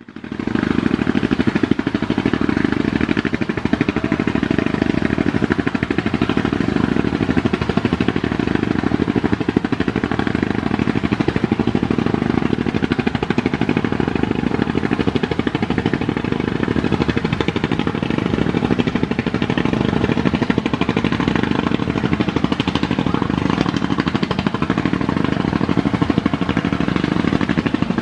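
Boat's diesel engine running steadily with a fast, even pulsing chug, heavy in the low range.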